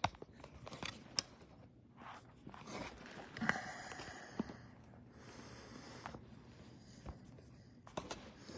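Faint handling noises: scattered sharp clicks and short stretches of rustling, as of small objects being moved about on a table.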